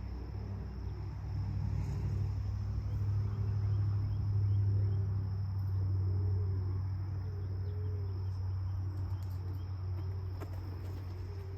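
Steady insect or cricket trill over a low rumble, with soft low calls around 300–500 Hz repeating about once a second, fitting pigeons cooing at the loft.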